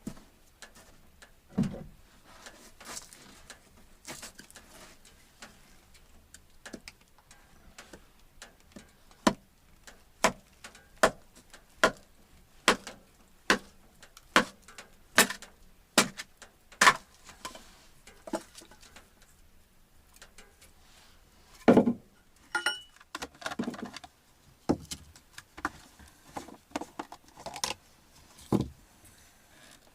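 Sharp knocks and clatters of firewood being handled to relight a wood stove in a small room: a steady run of strokes roughly one to two a second, then a louder knock and a scattered cluster of clatters near the end.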